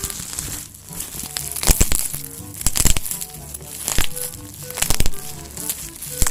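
Background music playing while plastic packaging crinkles and crackles in short spells every second or so as it is handled.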